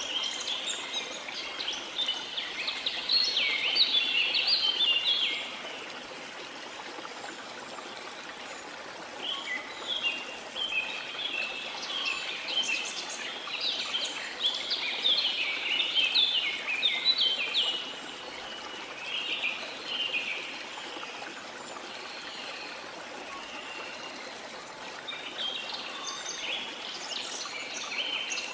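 Birds singing in bouts of rapid, high chirps over a steady rush of falling water, as from a waterfall in a tropical rainforest. The birdsong pauses twice, leaving only the water.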